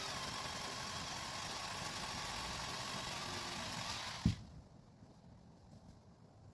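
Cordless electric chainsaw cutting through a conifer limb at full speed, a steady high whine with the rasp of the chain in the wood. The saw stops about four seconds in with no idle afterwards, and a single heavy thump follows at once.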